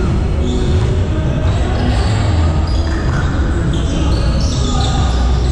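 Basketball bouncing on the court during a game, amid players' voices.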